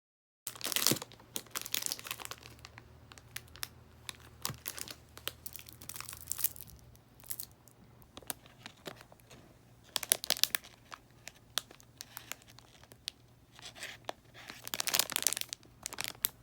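Crinkling and rustling of something crumpled or torn by hand, in irregular bursts of sharp crackles, loudest about a second in, around ten seconds in and again near the end.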